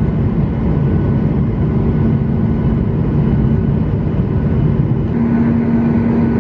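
Airliner engine and cabin noise: a steady, loud low rumble with a constant hum that shifts slightly higher about five seconds in.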